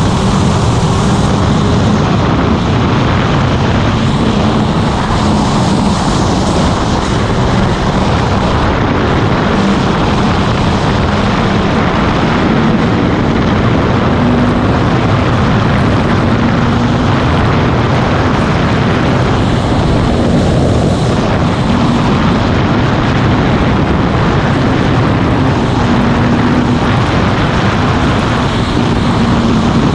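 Motorcycle engine running steadily at cruising speed, its pitch drifting slightly up and down, under a constant rushing noise.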